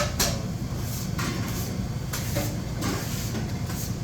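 Restaurant kitchen ambience: a steady low hum from the kitchen equipment, with a few brief clatters and scrapes.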